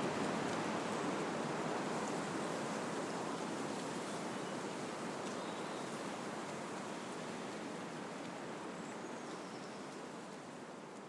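Wind rushing through trees, a steady noise of moving leaves and branches that fades gradually.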